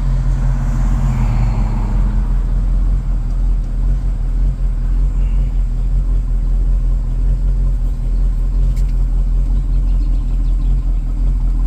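1994 Striper 212 boat's engine running at a steady idle, a low even rumble; it has only just been started and is still warming up.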